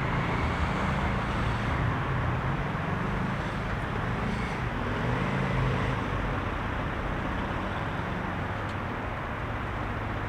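Heavy rush-hour city traffic: a steady mix of car engines and tyre noise from many vehicles passing, easing off slightly near the end.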